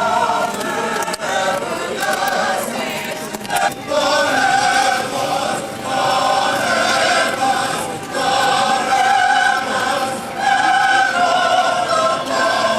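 Choir singing in sustained phrases of about two seconds each, with long held notes and brief breaks between the phrases.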